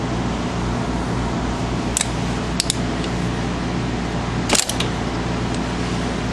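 A few sharp metallic clicks from a 3/8-inch ratchet and 7 mm Allen socket being worked onto the brake caliper bolts: one about two seconds in, another pair just before three seconds, and a louder cluster about four and a half seconds in. A steady mechanical hum runs underneath.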